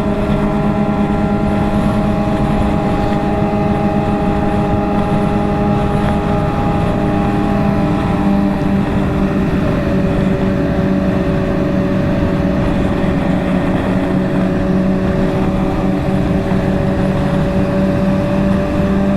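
Motorcycle engine running at steady cruising revs, with wind noise over the microphone.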